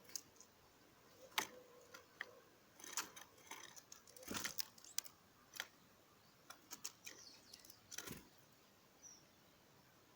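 Garden birds feeding: irregular sharp taps and clicks, like beaks pecking at seed, with a few faint short chirps.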